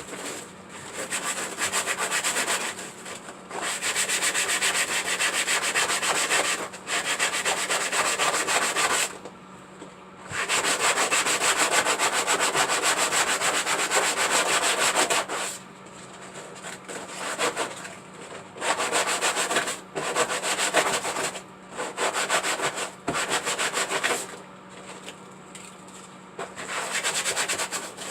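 Sandpaper rubbed by hand over a home-made turtle waterfall to shape it, in quick back-and-forth strokes. It comes in bursts with short pauses, with one long unbroken run in the middle.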